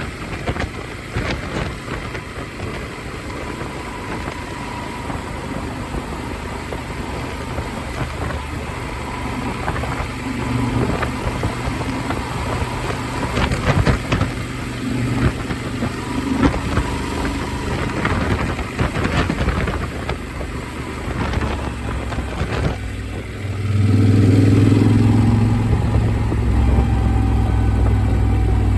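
Motorcycle engine running under way, heard with wind noise on the helmet-mounted phone's microphone. About 23 seconds in it gets louder, with a stronger low engine note.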